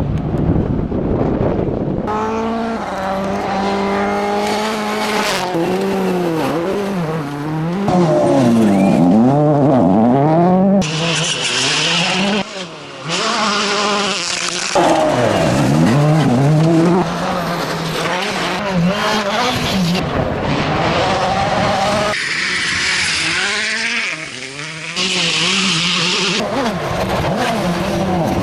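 Rally cars at competition speed, one after another. Their engines rev up and fall back again and again through gear changes, with a hiss of tyres and spray in some passages.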